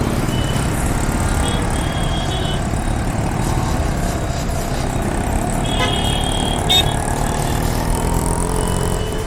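Riding a motorcycle in heavy city traffic: a steady rumble of engines and road noise, with several short vehicle horn toots from the surrounding traffic.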